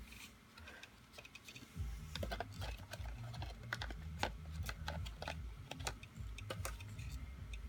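Irregular light clicks and taps of a handheld cordless vacuum being handled, over a low rumble, starting about two seconds in.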